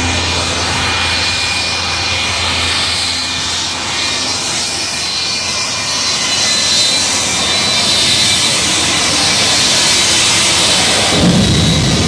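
Jet engines running: a loud steady rush with a high whine, slowly building. A coarse low rumble joins near the end.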